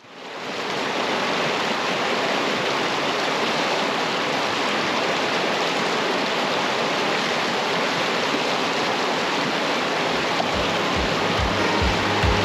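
Steady rushing water that fades in at the start. Music with a low, even beat comes in near the end.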